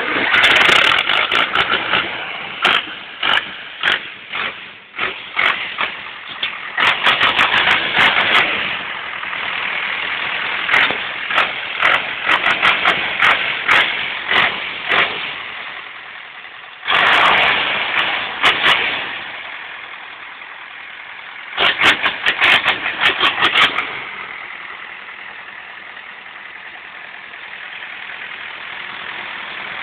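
Zetor 10145 tractor's turbocharged diesel engine running hard in repeated loud, crackly surges. It twice eases to a quieter, steadier run, the longer spell near the end.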